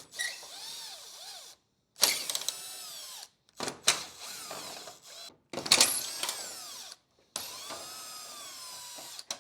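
Power drill run in about five short bursts of one to two seconds each, its motor whine rising and falling in pitch, with brief pauses between: driving out fasteners from the truck's exterior trim.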